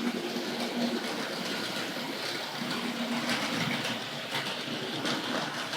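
Hornby Dublo 3-rail model locomotive running steadily along the track through the station: a continuous motor hum and rumble, with a few light clicks from the wheels on the rail joints.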